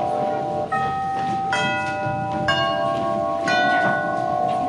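Bell-like chime tones struck one after another, roughly one a second, each ringing on over a held note, as a slow music cue.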